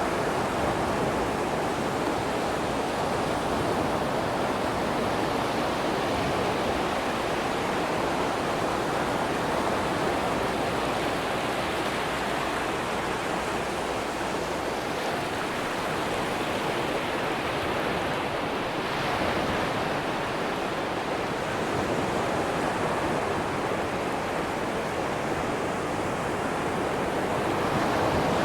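Atlantic ocean waves breaking and washing onto a sandy beach: a steady rush of surf that swells a little now and then.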